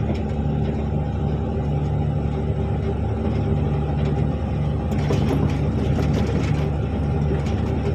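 Articulated dump truck's engine running under load, a steady drone with a lower pulsing note, heard from inside the cab, with a spell of rattling about five seconds in.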